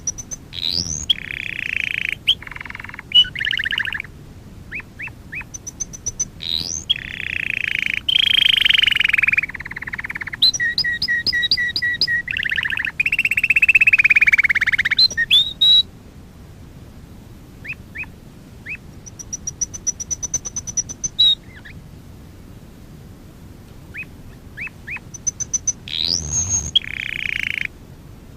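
Domestic canary singing in phrases of fast trills and rolls, thin high whistled notes and quick rising sweeps. A sparser stretch of single chirps falls in the middle, and a last full phrase comes near the end.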